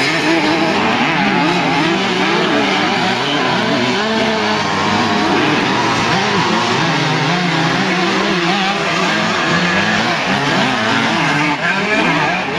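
Several vintage motocross motorcycles racing at once, their engines revving up and down over each other without a break.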